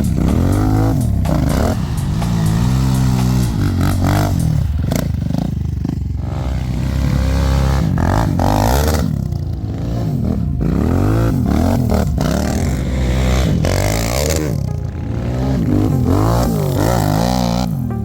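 Quad (ATV) engine revving up and down over and over, its pitch rising and falling about once a second as the throttle is worked.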